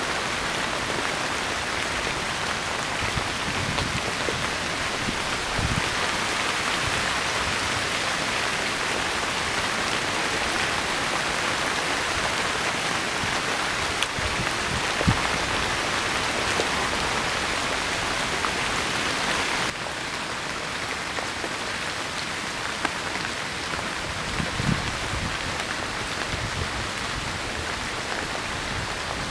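Steady rain falling on forest leaves: an even hiss with a few sharper drips now and then. It steps down a little in level about twenty seconds in.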